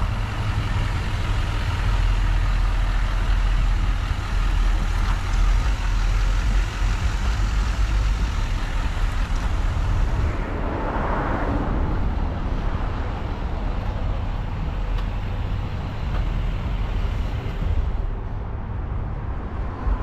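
GMC pickup truck running and driving: a steady low engine rumble with road noise, swelling briefly about halfway through.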